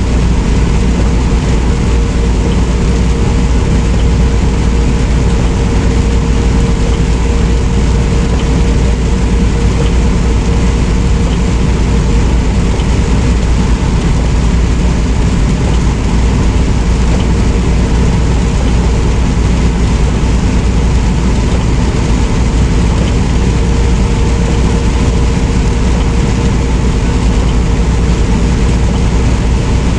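Semi-truck cab noise while driving: the diesel engine's steady low drone mixed with road noise, with a faint steady whine.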